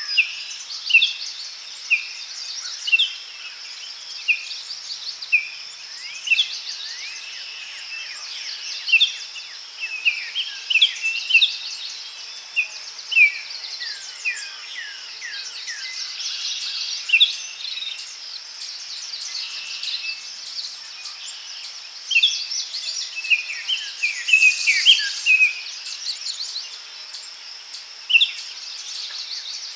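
Forest birds calling, many short falling chirps in quick succession, over a steady high insect drone.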